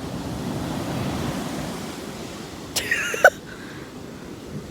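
Ocean surf washing up the beach: a steady rushing wash of breaking waves. A short high-pitched voice cuts in about three seconds in.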